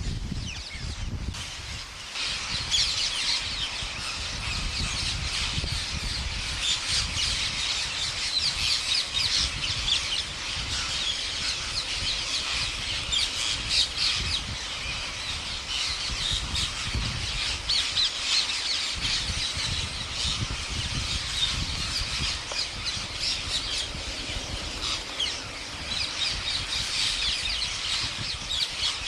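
A large flock of parrots squawking and chattering all together, a dense, unbroken din of many overlapping shrill calls, with a low rumble underneath.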